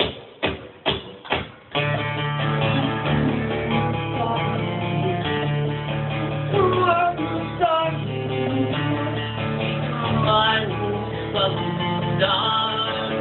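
Live band music: four quick evenly spaced clicks count in, then the band comes in about two seconds later, with strummed guitars over a steady bass and gliding lead notes.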